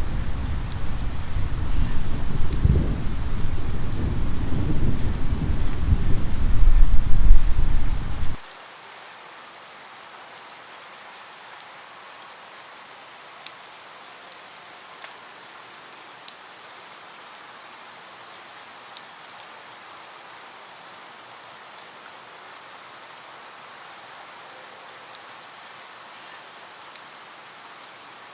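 Steady rain falling with scattered drop ticks. A low rumble of thunder, loudest about seven seconds in, cuts off abruptly about eight seconds in, leaving the rain alone.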